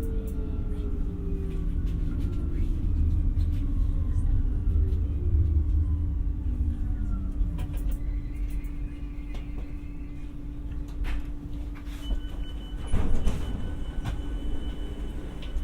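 Alstom Coradia Nordic X60 electric multiple unit heard from inside the car as it brakes. The traction motors' whine falls steadily in pitch under heavy rumble, then the rumble dies away as the train slows toward a stop, leaving a steady hum and a single loud knock about thirteen seconds in.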